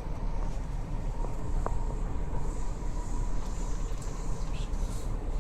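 Steady rumble of a moving commuter train heard from inside the carriage, with a few faint clicks.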